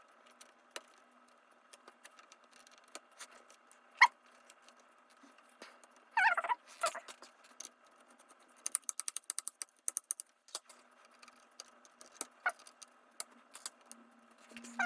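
Small clicks, taps and scrapes of hands and small tools working on a laptop's internals, with a single louder tick about four seconds in and a quick run of rapid clicks around nine seconds in.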